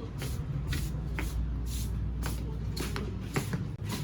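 Steady walking footsteps with clothing rustle, about two scuffs a second, over a steady low hum.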